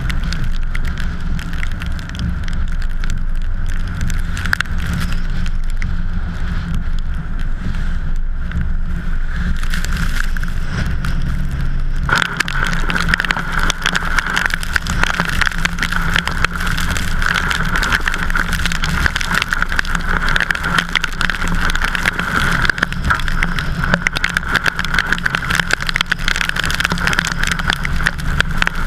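Steady road and engine rumble from a moving vehicle. About twelve seconds in, a louder, crackling hiss sets in over it.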